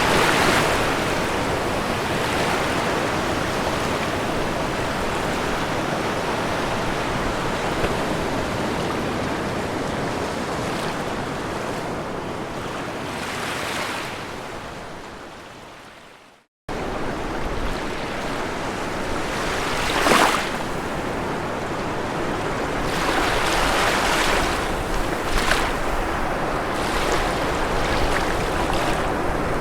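Ocean surf rolling onto a shore, a steady wash with swells as waves break. A little past halfway it fades down to a moment of silence, then cuts back in suddenly, like a loop restarting, followed by several louder wave surges.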